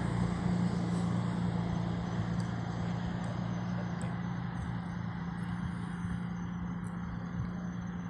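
Steady rushing, rumbling air noise with a constant low hum, as heard on a Falcon 9 first-stage booster's onboard feed while the booster falls through the atmosphere just after going transonic. It slowly fades.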